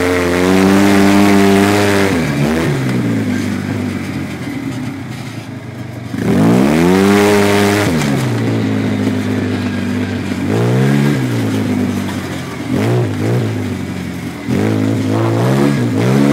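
Car engine heard from inside the cabin, revving hard and easing off again and again. Its pitch falls about two seconds in, climbs steeply about six seconds in, drops off around eight seconds, and rises and falls in quick short blips near the end.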